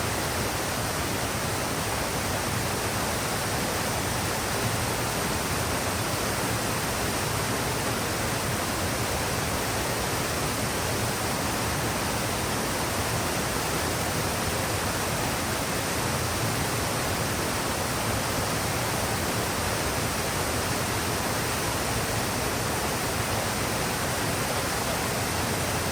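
Steady, unbroken rushing of flowing forest water.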